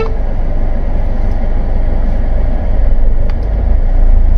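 Car engine idling, a steady low rumble heard from inside the cabin, with a light click about three seconds in.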